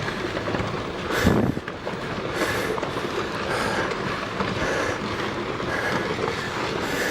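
Steady rushing rumble of a landslide, rock and debris sliding down a volcanic mountainside, briefly louder about a second in.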